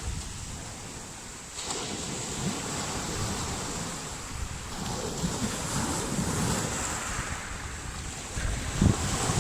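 Waves of a slightly rough sea breaking and washing on the shore, with wind buffeting the microphone in low rumbling gusts, strongest near the end.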